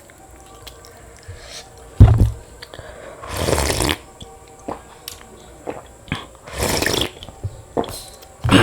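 Close-miked eating of panta bhat, rice soaked in water: wet squelching and slurping noises with small clicks, and a sharp knock about two seconds in and again near the end.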